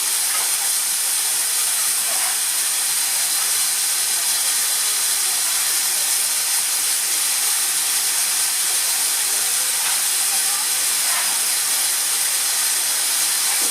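Steam locomotive giving off a loud, steady hiss of escaping steam, with no exhaust beats.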